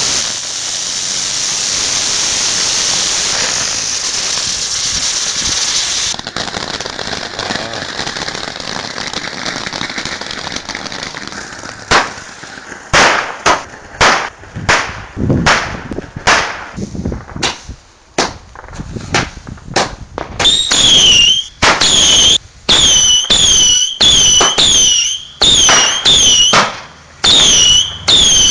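Backyard fireworks. For the first several seconds a ground fountain hisses as it sprays sparks. From about twelve seconds in comes a fast run of sharp bangs, and from about twenty seconds in each bang comes with a shrill, bending whistle.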